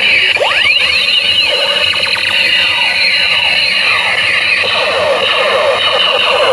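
Battery-powered toy strike gun playing its electronic sound effects: loud, overlapping synthetic tones sweeping up and down in pitch, over a steady noisy buzz.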